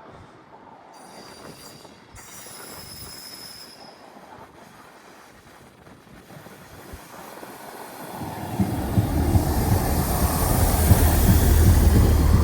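A train running into or through the station: after a quiet stretch with a faint high whine from the rails, the rumble and hiss of the train swell loudly from about eight seconds in.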